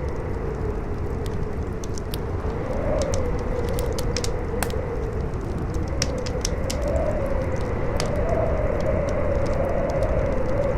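Wind howling in a steady whistle that rises and falls in slow swells over a low rumble, with a fire crackling and popping in quick irregular snaps.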